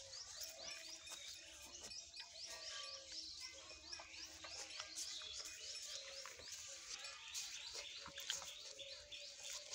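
Small birds chirping, a quick run of short high chirps at about four a second that goes on without a break, over a faint steady hum.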